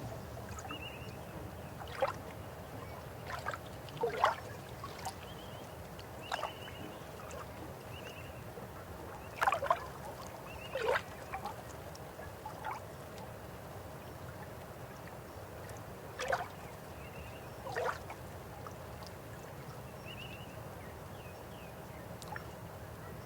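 Steady rush of a flowing river, with sharp bird calls standing out over it several times and a faint high chirp repeating every second or two.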